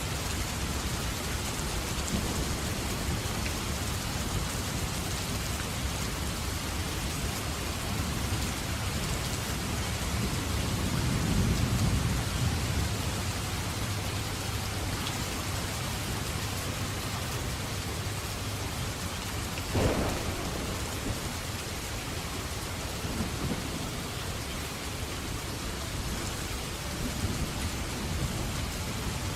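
Steady heavy rain with thunder: a low rolling rumble swells and fades about a third of the way in, and a sharp thunder crack comes about two-thirds of the way in.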